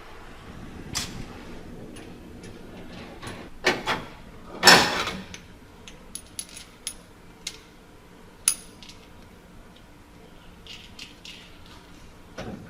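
Scattered metal clanks and clinks of tools and parts while the rear axle housing is unbolted and hooked up for removal, with one loudest clank about five seconds in.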